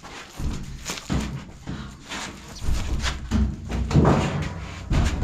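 Irregular thumps and knocks of a heavy laundry appliance being lifted and shifted into place, several of them about a second apart, the loudest about four seconds in.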